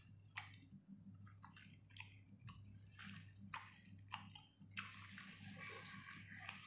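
Faint, wet biting and chewing of a large grilled squid, with a sharp mouth smack every second or so and a longer hissing stretch near the end, over a low steady hum.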